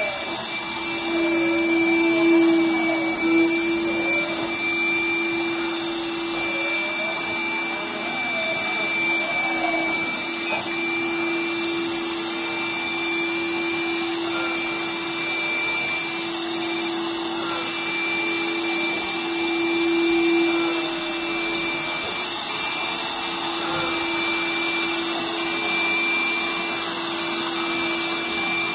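Window-cleaning robot's suction fan running, a steady whine with a low hum and a high tone underneath.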